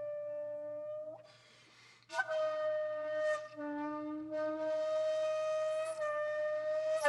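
Background music: a breathy solo flute holding long, steady notes, with a short gap about a second in before the next note starts.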